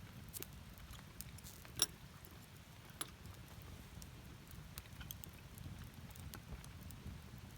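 Wood campfire crackling, with scattered sharp pops over a low steady rumble. The loudest pop, about two seconds in, has a brief ring.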